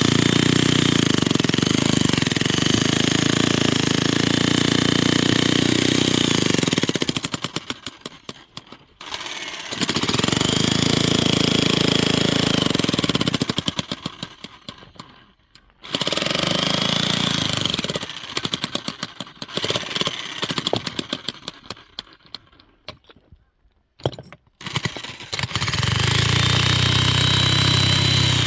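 A small motor or motorized machine running hard in bursts of several seconds. Between bursts it slows and coasts to a stop, its strokes spreading out, and it starts again four times in all.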